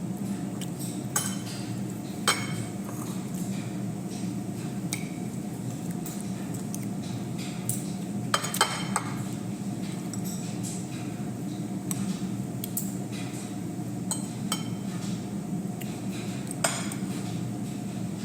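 Utensils clinking against dishware while eating, with a few sharper clinks standing out, over a steady low hum.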